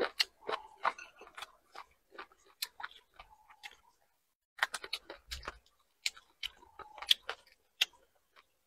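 Close-miked chewing of saucy squid: wet mouth smacks and sharp clicks in an irregular run, pausing briefly about four seconds in.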